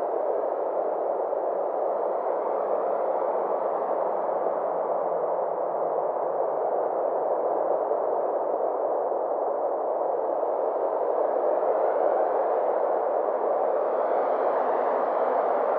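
Steady synthesized ambient drone of the kind used as 'space sound': a dense hum centred in the mid range, with faint higher tones that slowly swell and sway, and no beat or breaks.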